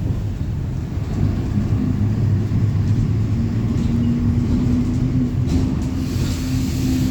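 Mercedes-Benz OF-1721 bus's six-cylinder diesel engine running under way, heard from inside the passenger cabin: a steady rumble with a droning hum, and a brief hiss near the end.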